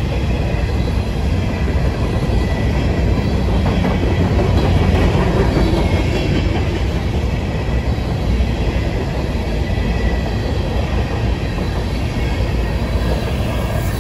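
A train rolling past close by: a steady, loud rumble and rattle of wheels on the rails.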